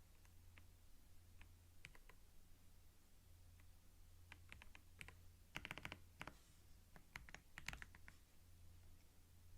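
Soft computer keyboard typing, close-miked in binaural ASMR style. A few scattered keystrokes come first, then quick runs of key clicks through the middle, over a faint steady low hum.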